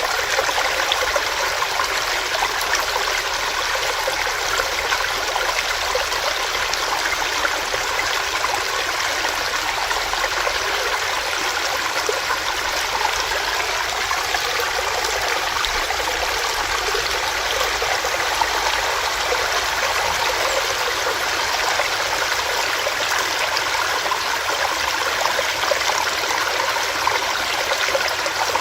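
Small rocky stream running over rocks, a steady rushing and gurgling of water.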